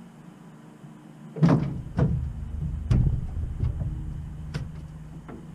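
Several sharp knocks and clunks, the first and loudest about a second and a half in, then three more spaced about a second apart, over a low rumble that starts with the first knock.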